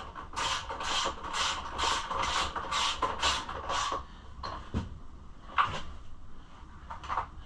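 Ratchet wrench being swung back and forth, about ten quick raspy ratcheting strokes in a steady rhythm, as bolts are run in during reassembly. After about four seconds the ratcheting stops and a few separate sharp clicks and knocks of tools and parts follow.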